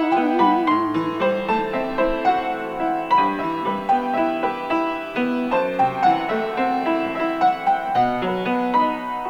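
Instrumental interlude of a hymn between sung verses: a keyboard melody over chords at a moderate tempo, its notes changing steadily.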